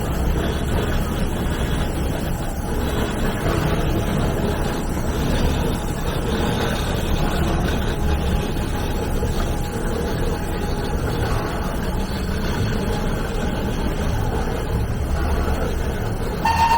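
SL21, a Shay geared steam locomotive on the Alishan Forest Railway, running with a steady rumble and hiss. Its steam whistle starts sounding right at the end.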